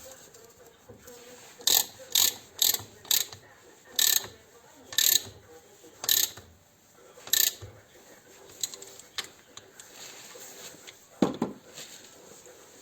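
Hand-tool work on a motorcycle engine: about eight short, sharp, ratchety metal clicks in uneven succession over some six seconds, then a single duller knock near the end.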